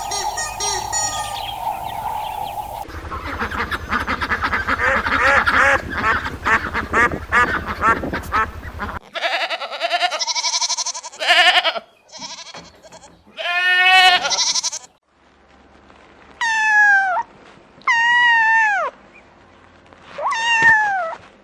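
A run of farm animal calls, led by goats bleating, followed by several shorter calls and three falling cries near the end.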